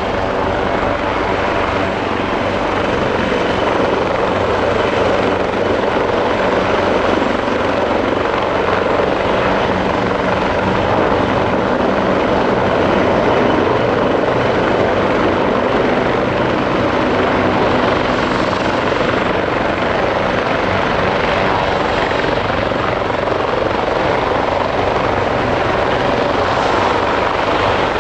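Bell 430 helicopter running close by: the whine of its twin turboshaft engines over the beat of the main rotor, loud and steady.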